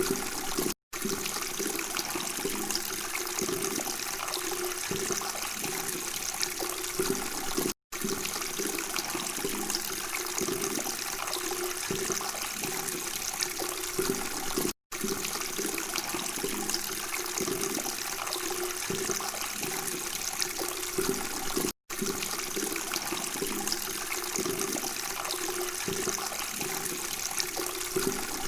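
Steady babbling, trickling water, cutting out to silence for an instant about every seven seconds, the joins of a repeated recording.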